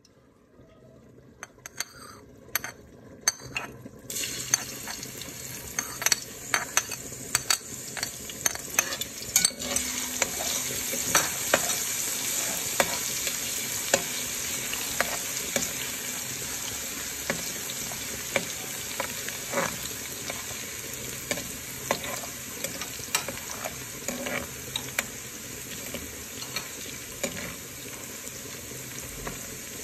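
Grated ginger frying in oil in a metal pan: a steady sizzle that builds up over the first few seconds. A slotted spatula stirring it scrapes and clicks against the pan, most often in the first half.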